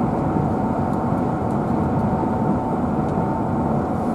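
Steady road and engine noise of a moving car heard from inside its cabin, an even rumble and hiss with a faint steady whine above it.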